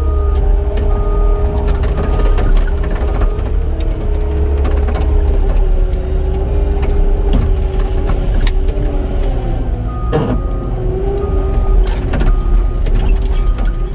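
Diesel engine of heavy earthmoving equipment running steadily with a deep rumble, with scattered knocks. A backup alarm beeps in a steady repeating pattern for the first few seconds and again from about ten seconds in.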